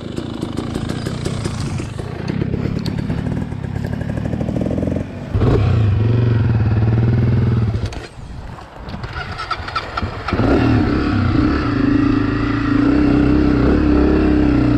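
Dirt bike engines running and revving under load, the pitch and level changing abruptly a few times: about five seconds in, around eight seconds and again just after ten seconds.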